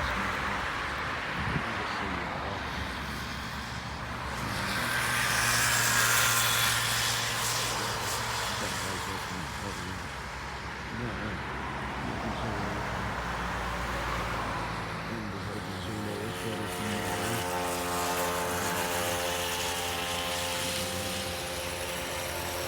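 Motor vehicle passing, swelling and fading about six seconds in, then a steady engine hum with a held pitch in the second half.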